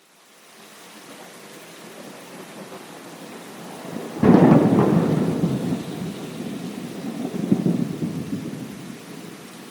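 Steady rain fading in from silence, then a sudden thunderclap about four seconds in. The clap trails into a low rumble that swells once more and dies away under the continuing rain.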